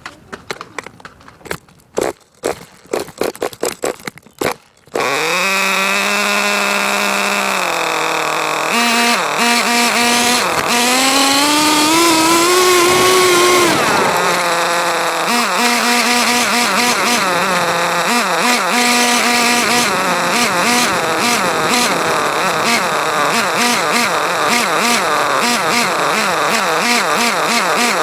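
A radio-controlled car's small fuel engine being pull-started with a run of quick pulls, catching about five seconds in. It then runs at a high, buzzing pitch, revving up and down repeatedly.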